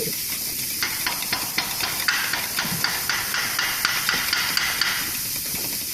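A fast run of hammer strikes, about five a second, over a steady hiss; the strikes stop about five seconds in.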